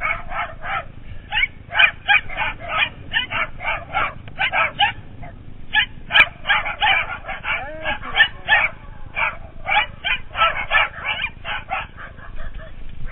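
Small dogs barking and yipping rapidly as they chase a bicycle, several high-pitched barks a second with a brief lull about five seconds in.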